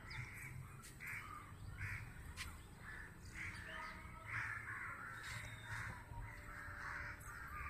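Crows cawing repeatedly in the distance, faint.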